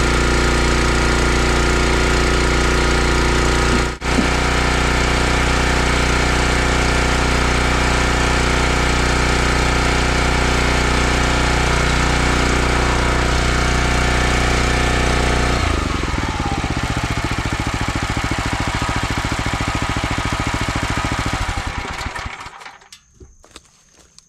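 Log splitter's small gas engine running steadily, with a brief dropout about four seconds in. About sixteen seconds in it drops to a slow, uneven chug and dies out a few seconds before the end: the engine being shut off.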